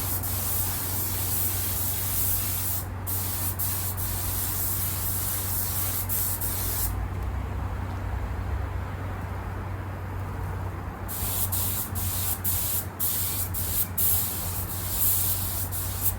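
Spray gun hissing as leather paint goes onto car seats in a final coat. It sprays in bursts: steadily for about seven seconds with two quick breaks, then a pause of about four seconds, then several short bursts near the end. A steady low hum runs underneath.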